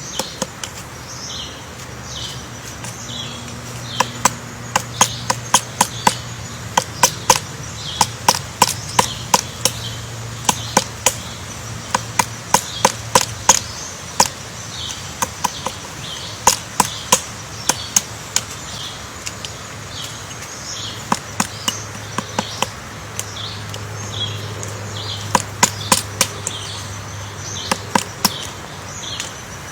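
Quick runs of sharp clicks or taps, over a short high chirp that repeats about twice a second, with a low steady hum in parts.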